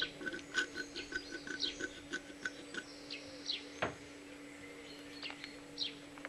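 Birds singing faintly: short chirps sweeping down in pitch and a quick run of repeated pips, over a steady low hum. A single sharp click comes a little before four seconds in.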